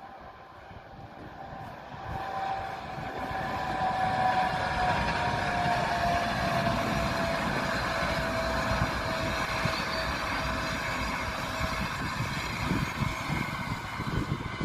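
SNCB M6 double-deck passenger train running by, its rumble building over the first few seconds and then holding steady, with a thin whine that slowly falls in pitch.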